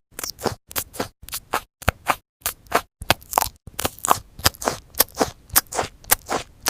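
A quick series of sharp scraping or cutting strokes, about three a second, broken by a few brief cut-off gaps.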